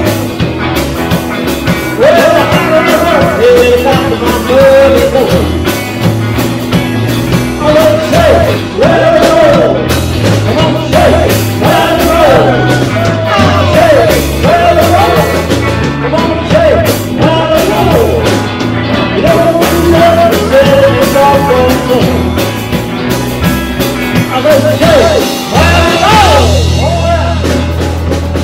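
Live rock-and-roll band playing, with drum kit, bass and a bending melodic lead line over a steady beat; near the end the drums drop away under a held low note.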